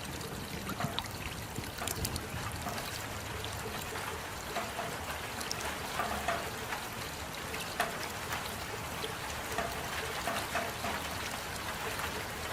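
Steady rain: an even hiss with many separate drops ticking and splashing at irregular moments.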